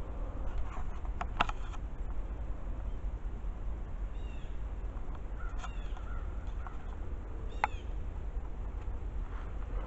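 A bird calling a few short times, spaced a second or two apart, over a steady low rumble. There are a couple of sharp clicks about a second and a half in.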